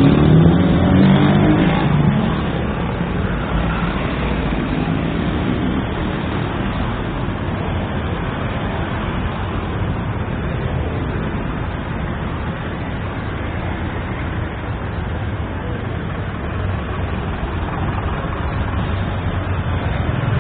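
Street traffic: a steady din of passing cars, louder for the first two seconds as a vehicle goes by, then an even rumble.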